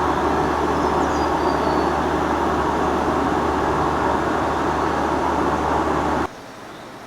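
A motor running steadily, with a constant low hum under a dense rushing noise. It cuts off abruptly about six seconds in.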